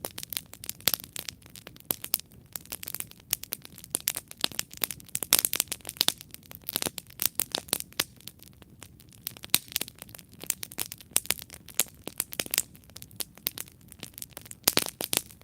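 Wood campfire burning, crackling with a dense, irregular run of sharp pops and snaps over a low hiss.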